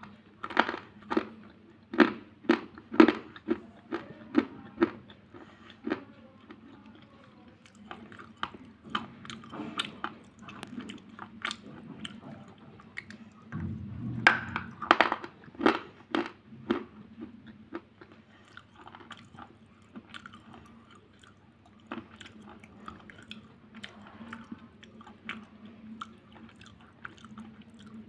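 Close-up biting and chewing of an unshaped slate pencil bar: sharp, brittle crunches about two a second, loud for the first few seconds, another loud run around the middle, then softer crunching as the pieces are ground down.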